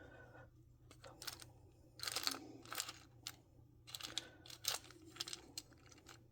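Rummaging through a pile of small plastic doll accessories: irregular light clicks and short rustling, busiest about two seconds in and again around four to five seconds in.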